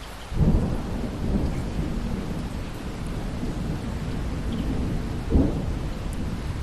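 A thunderclap breaks about half a second in and rumbles on, with a second sharp crack near the end, over steady rain.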